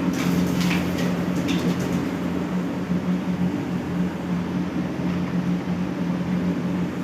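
Steady mechanical hum of a running motor, with a few brief scratchy sounds in the first second and a half.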